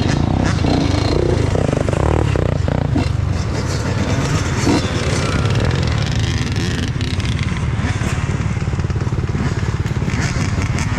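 Dirt bike engine running steadily, with a fast even pulsing.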